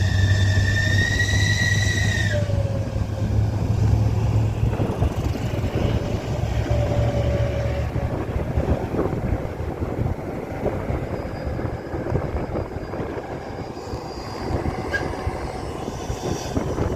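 Heavy vehicle running on the road, a steady low engine rumble with rattling. A high whine rises slightly over the first two seconds and then cuts off.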